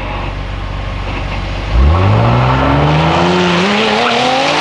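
Car engine idling at a drag strip starting line, then launching hard about two seconds in: a sudden jump in loudness and the engine pitch climbing steadily as the car accelerates away down the strip.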